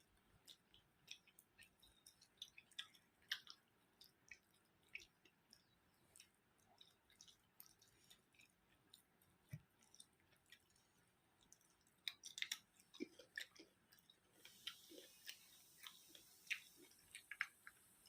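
Faint close-up chewing and wet mouth sounds of a person eating curry with rice: an irregular scatter of small clicks and smacks.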